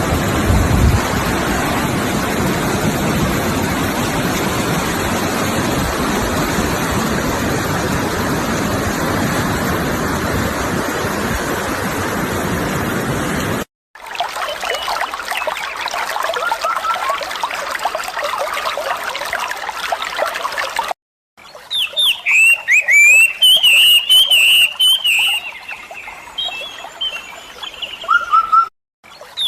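A steady rush of water, then after a sudden cut a quieter trickling stream with faint bird chirps, then after another cut songbirds calling loudly in repeated quick falling whistles.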